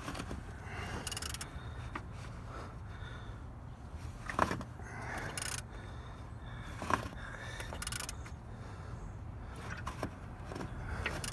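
Hand work on an exposed engine's intake camshaft and timing gear: scattered sharp metallic clicks and light scraping over a low steady hum, the two loudest clicks about four and a half and seven seconds in.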